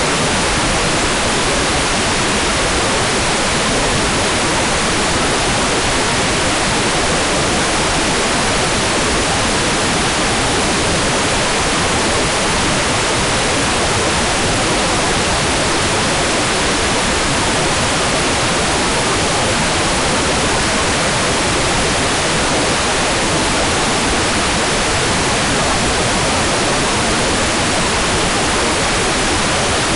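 Hairdryer running steadily: a continuous, even rushing noise that does not change.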